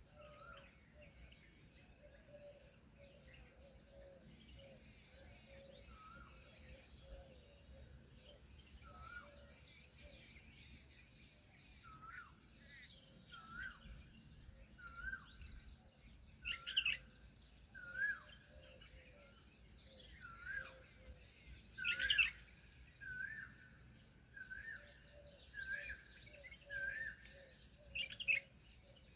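Birds calling: a short chirp repeated about once a second, louder in the second half, with a few sharper, louder calls among them.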